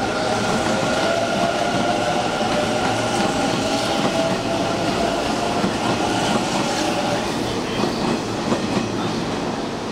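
Hanshin Railway electric train running through the station, wheels clattering over the rail joints, with a steady whine that fades out about seven seconds in.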